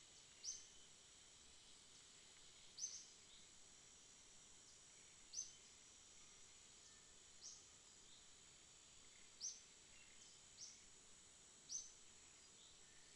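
Faint night ambience: a steady high-pitched insect drone, with a short, sharp high chirp about every two seconds.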